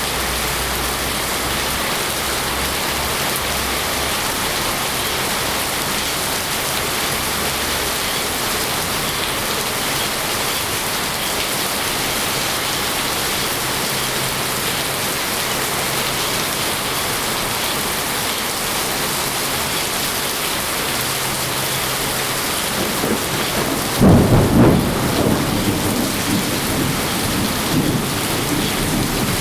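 Steady rain falling. Near the end, a sudden rumble of thunder breaks in and rolls on in a few swells.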